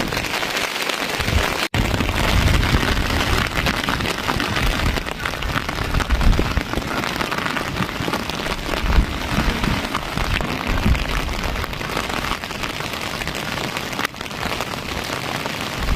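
Steady rain falling, an even hiss with a heavy low rumble beneath it, broken by a brief sharp drop-out about two seconds in.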